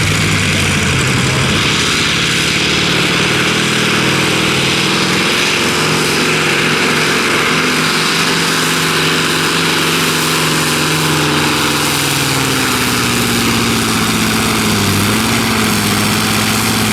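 Pulling tractor's engine running at full power under heavy load as it drags the weight sled down the track. The note holds steady, then sags lower in pitch over the last few seconds as the engine is pulled down by the sled.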